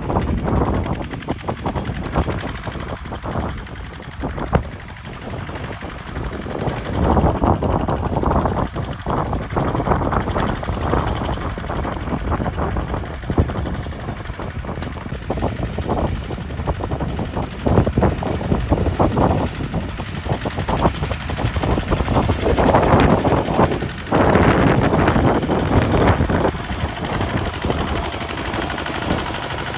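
Kubota RT single-cylinder diesel engine of a converted tractor chugging under load while plowing, its rapid exhaust beats growing louder and easing off several times.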